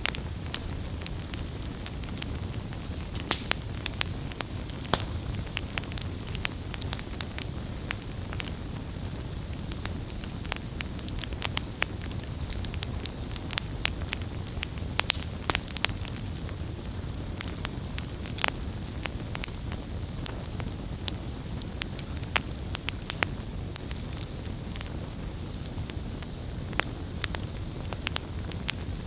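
Wood campfire crackling: irregular sharp pops and snaps, a few louder than the rest, over a steady low rush from the burning.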